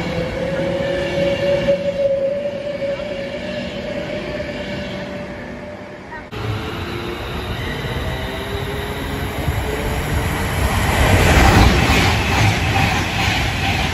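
An electric train moving along the platform with a steady whine rising slowly in pitch. It cuts off suddenly about six seconds in, and then an Avanti West Coast Pendolino passes at speed, its rush of wheel and air noise building to its loudest near the end.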